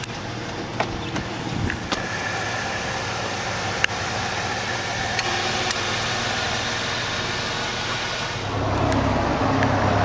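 2002 Jeep Liberty's 3.7-litre V6 idling steadily, with a few light clicks; the engine sound gets louder about eight and a half seconds in.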